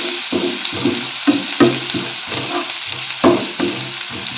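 Chopped onions and green chillies sizzling in hot oil in a frying pan while a spatula stirs them, scraping the pan in quick repeated strokes with a few sharp knocks against the pan.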